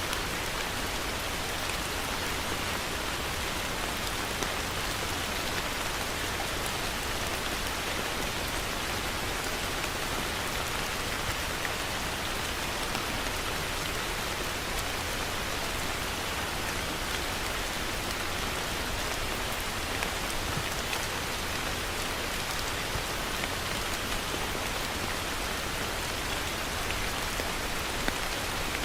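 Heavy rain falling steadily: a dense, even hiss with a few louder single drops pattering through it.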